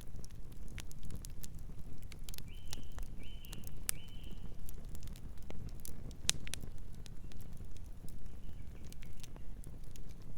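Campfire of burning wood crackling: irregular sharp pops and snaps over a low steady rumble of the flames, with a few short high chirps about a quarter of the way in.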